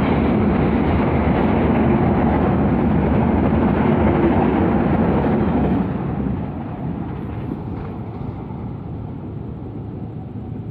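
A train running past with a steady rumble, which drops sharply about six seconds in and then fades away.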